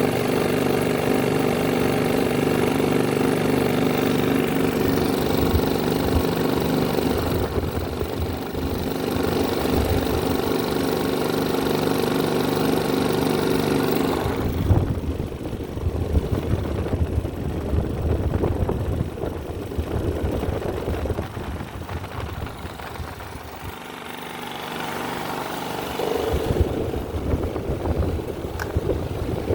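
Electric fans and small homemade fan motors running together: a steady motor hum and whir. About halfway through the hum gives way to a rougher, fluttering run. It picks up again near the end.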